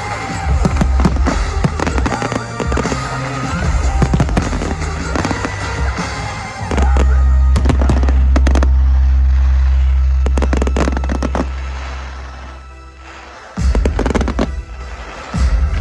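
Fireworks bursting and crackling over background rap music with heavy bass. About 7 seconds in, a long deep bass note takes over and slowly fades. Sharp bangs start again near the end.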